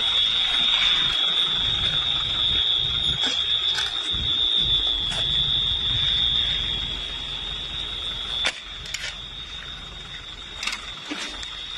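A steady, high-pitched alarm tone over a low rumble, with a few sharp clicks here and there; everything gets quieter about eight seconds in.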